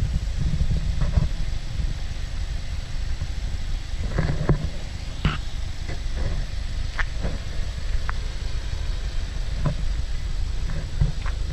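2016 Volkswagen Golf R's turbocharged four-cylinder idling with a steady low rumble, with scattered short clicks and knocks over it.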